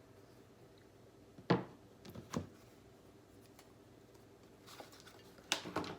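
A few sharp knocks and taps of a kitchen knife against a cutting board while frozen venison loin is sliced and handled: one clear knock about a second and a half in, two lighter ones soon after, and a cluster of taps near the end, over a faint steady room hum.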